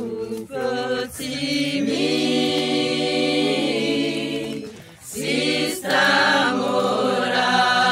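A group of voices singing a cappella in chords, holding long notes, with short breaks between phrases about a second in and again about five seconds in.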